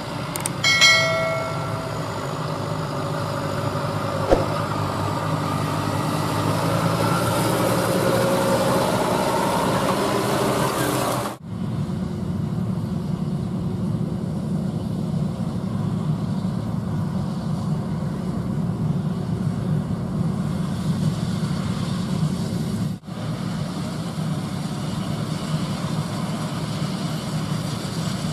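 Heavy diesel farm machinery running steadily at work. Under a second in there is a short ringing, metallic clang. The sound changes abruptly twice, at about 11 and 23 seconds, as different machines cut in.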